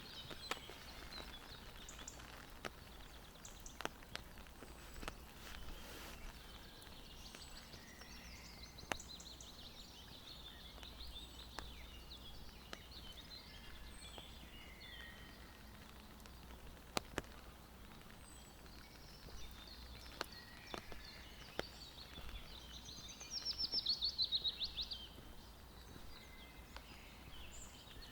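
Forest birds singing and calling, with a loud rapid trill a little over three-quarters of the way through. Scattered sharp clicks and a faint low rumble sit underneath.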